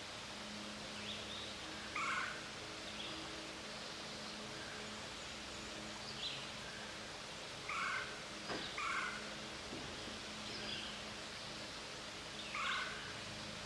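Woodland birds calling: short downward-sliding notes, singly or in quick pairs, every second or two, over a faint steady low hum.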